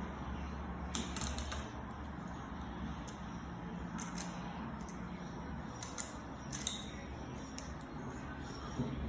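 Plastic LEGO bricks being handled and shifted, with scattered sharp clicks and a small cluster of rattling clicks about a second in, over a steady low hum.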